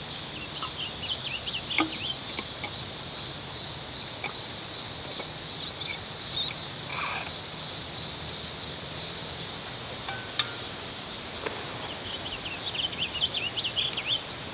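Cicadas droning steadily at a high pitch, easing slightly after about ten seconds. Over the drone come short chirping calls of an eastern bluebird, a cluster near the start and another near the end. Two sharp clicks sound about ten seconds in.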